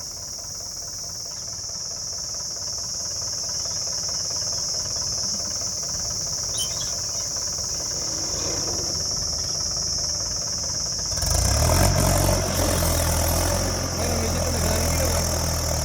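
Heavy diesel engine running at low revs, then revving up harder about eleven seconds in, with a deep, steady throb from then on.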